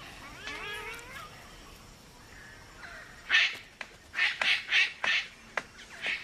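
Palm cockatoo calls: a wavering, whistled call in the first second, then from about three seconds in a quick run of short, harsh calls.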